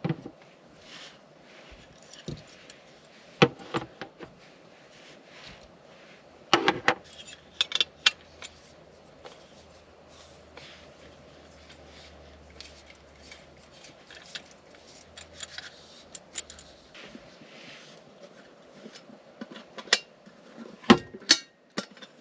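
Camp cookware and utensils being handled: scattered metallic clinks, clicks and knocks, bunched in a few clusters.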